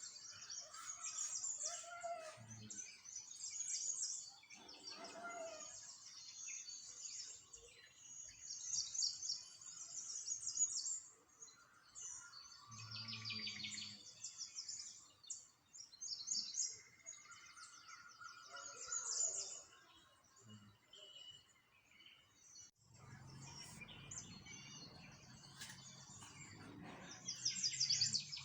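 Small birds chirping and singing, with rapid high trills repeating again and again and a few lower calls among them. In the last few seconds a low rumble runs underneath the birdsong.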